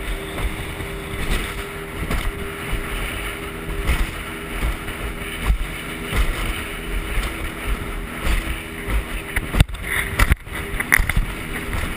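Boat motor running steadily, with wind buffeting the microphone; a couple of sharp knocks near the end.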